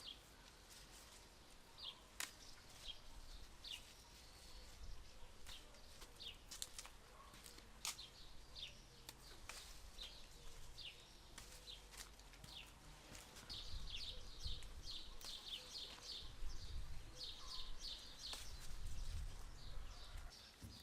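Small birds chirping: repeated short, high, downward-sweeping notes that come in quick runs in the second half. A few sharp clicks and a low rumble sit underneath.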